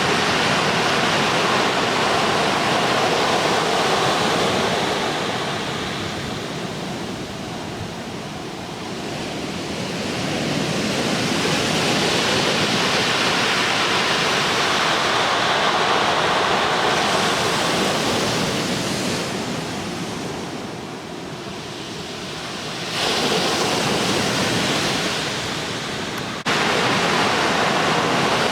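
Ocean surf from a leftover typhoon swell breaking at a river mouth: a continuous rush of waves that swells and eases. The level changes abruptly twice near the end.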